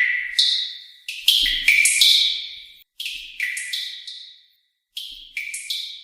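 High, bell-like chime tones struck in irregular clusters of two to four notes. Each note rings briefly and fades, with short silent gaps between the clusters.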